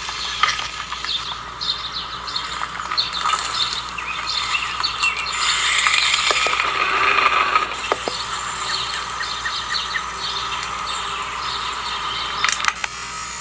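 Small homemade electric RC car driving, its motor running and its light plastic body rattling and clattering over the ground, busiest about halfway through.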